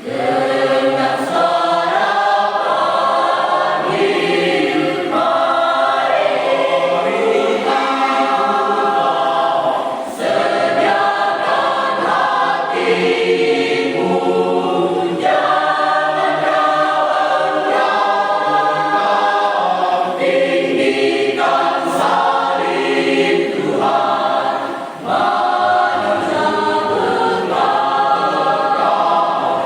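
Church choir singing together, starting suddenly at the beginning, with brief pauses between phrases.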